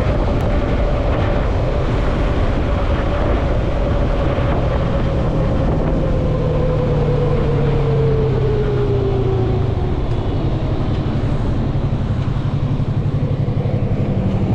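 Yamaha MT-03 motorcycle engine running under way, with wind noise on the microphone; the engine note falls slowly over about ten seconds as the bike eases off, then holds steady.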